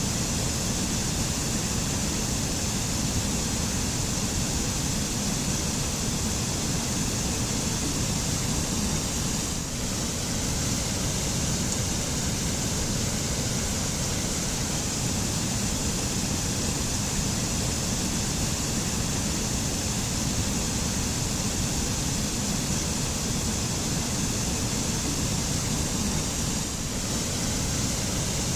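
Waterfall: a steady rush of falling water with a deep low rumble and a bright hiss.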